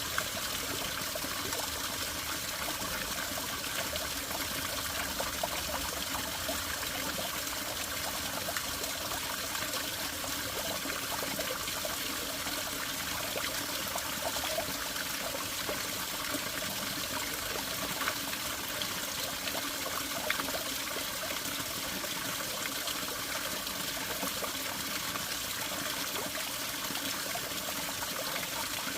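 Small forest spring trickling and splashing steadily.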